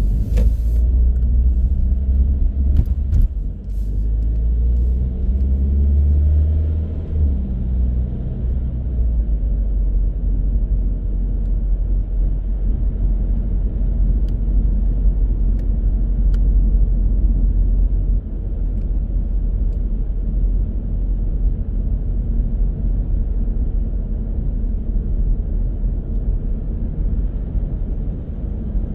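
Car driving on a city road: the engine note rises as it accelerates over the first several seconds, then settles into a steady low rumble of engine and tyres at cruising speed. A few light clicks near the start.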